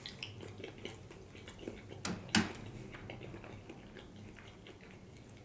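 Quiet chewing of sushi, with scattered small mouth clicks and a couple of sharper clicks a little over two seconds in.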